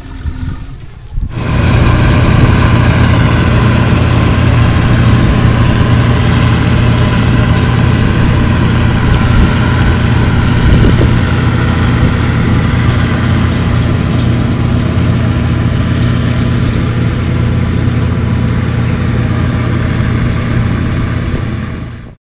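Bizon Super Z056 combine harvester's SW-400 six-cylinder diesel engine running steadily and loudly. It comes in abruptly about a second in, after a quieter moment with a low steady hum, and cuts off at the very end.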